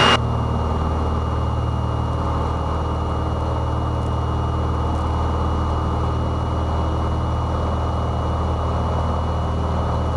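Cessna 172's four-cylinder piston engine and propeller running at full takeoff power during the initial climb after liftoff, a steady even drone with no change in pitch.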